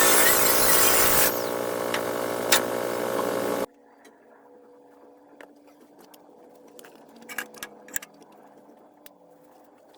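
Handheld power grinder working steel plate. It runs loud with a high motor whine, drops to a lighter load about a second in, and stops abruptly a little past a third of the way through. After that there is a faint steady hum with a few sharp light clicks.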